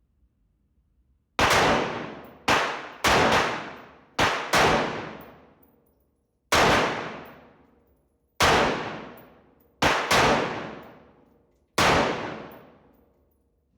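Handgun shots fired one at a time as the magazine is emptied, about nine shots at an uneven pace, some in quick pairs. Each shot rings off in a long echoing decay.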